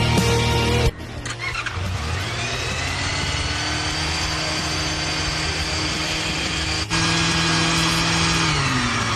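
Motorcycle engine starting about a second in, its pitch climbing for a couple of seconds and then holding at a steady fast run. Near the end the revs drop away.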